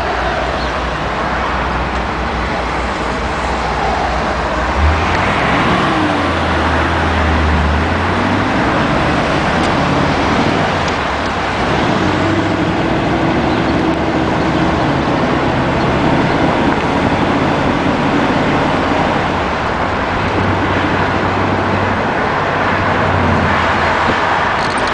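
1955 Ford Thunderbird on the move: steady road and wind noise over a low engine hum whose pitch steps up and down every few seconds.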